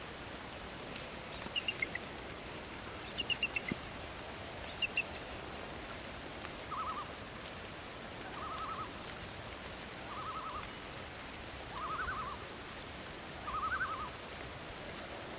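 Birds calling over a steady background hiss: three quick bursts of high, falling chirps in the first five seconds, then a short trilled call repeated five times at even intervals about every second and a half to two seconds.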